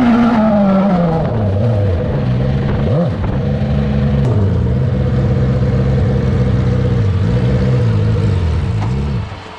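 Rallycross car's engine under load, its revs falling about a second in, then rising and falling again and again as the throttle is worked, easing off near the end.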